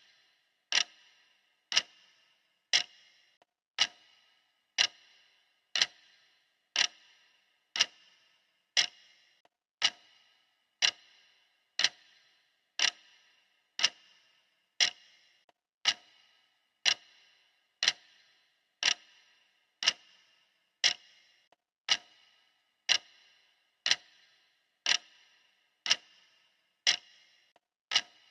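Clock ticking steadily, one sharp tick a second, each with a brief ring.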